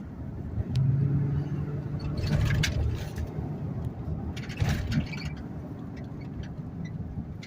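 Car driving along a road, heard from inside: a steady low engine and tyre rumble, with the engine humming louder for a couple of seconds about a second in.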